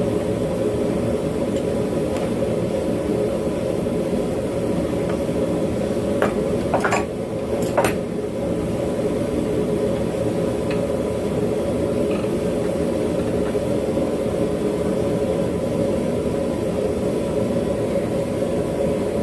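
Propane forge burner running with a steady roar. A few light metal clinks come between about six and eight seconds in.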